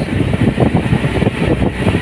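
Boat engine running steadily while under way, with wind noise on the microphone.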